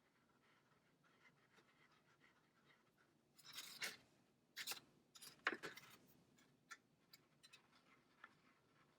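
Marker drawing on paper: a few short strokes about halfway through, with faint taps between and near silence otherwise.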